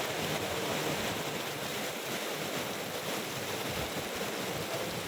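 Heavy tropical downpour driven by strong wind, a steady, dense rush of rain.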